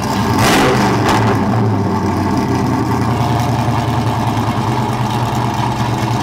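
Car engine running steadily through a muffler being tried out on a new exhaust, with a brief rise in level about half a second in.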